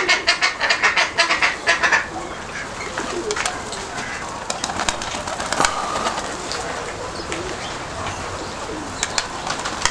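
Domestic pigeons cooing, over a steady rush of wind. A fast, even rattling runs for about the first two seconds and then stops, followed by scattered light clicks.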